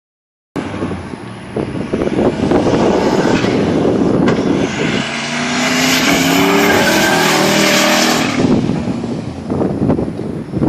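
Boosted Ford 5.4-litre SOHC V8 car passing at speed under hard acceleration, its engine note rising in pitch from about five seconds in, then fading away with wind noise near the end.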